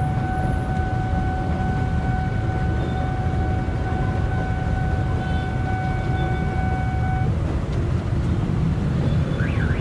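Street traffic: a steady low rumble of engines. Over it, a steady whine-like tone holds and then cuts off about seven seconds in.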